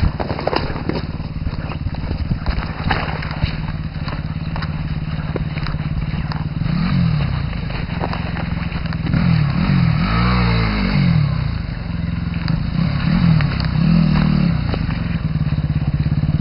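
Enduro motorcycle engine running steadily at low revs, opened up in several short revs that rise and fall, with scattered knocks in the first few seconds.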